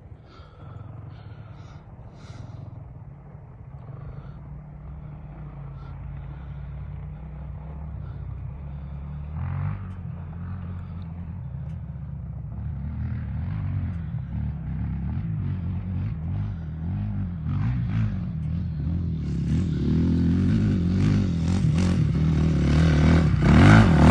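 Honda CRF450R dirt bike's single-cylinder four-stroke engine running with a steady low note, growing steadily louder over about twenty seconds until it is loud near the end.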